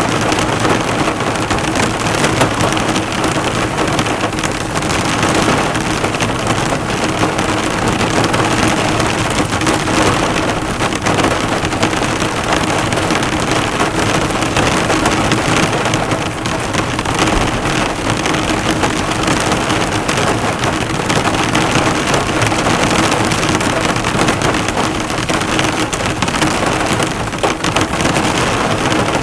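Heavy rain drumming on a car, the drops bouncing off the hood in a steady, dense patter.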